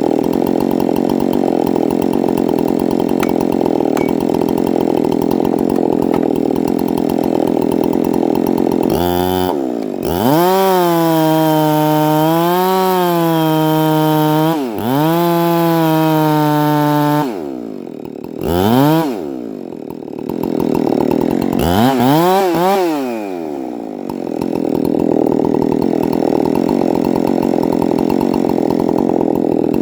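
Chainsaw cutting into wood under load, then revved free at high speed about a third of the way in, dropping to idle a little past halfway with two short blips of the throttle, and going back into the cut under load near the end.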